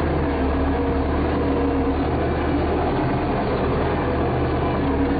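A vehicle engine running steadily, a constant low drone with a steady hum.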